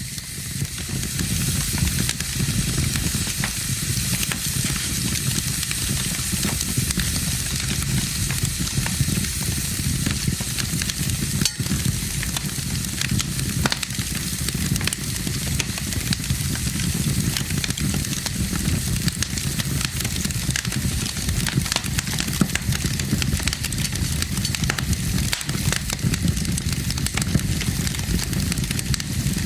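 Crackling, hissing fire sound over a steady low rumble, with frequent small pops.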